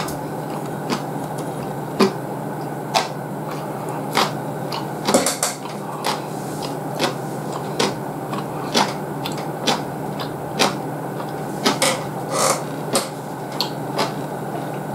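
Close-up eating sounds of a person chewing ramen noodles: irregular wet mouth clicks and smacks, about one to three a second, over a steady low background hum.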